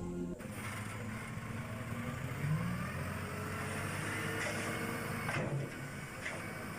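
A toy dump truck being handled and rolled, giving a steady rolling whirr with a short rising whine about two and a half seconds in and a couple of light knocks near the end.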